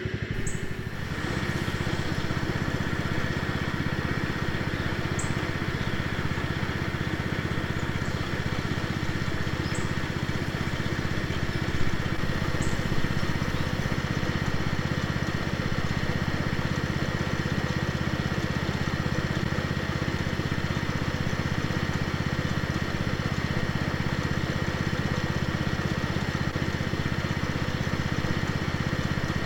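1978 Cub Cadet 1000 garden tractor's engine running steadily, with a couple of brief knocks about halfway through.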